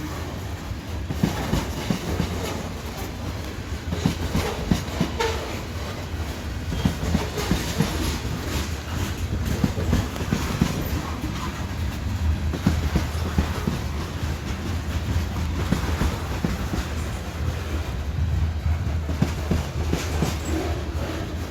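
Freight train cars rolling past, steel wheels clicking and clanking irregularly over the rail joints above a steady low rumble.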